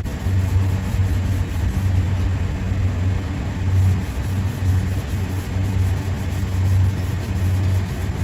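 Steady low machine hum that keeps a constant level throughout.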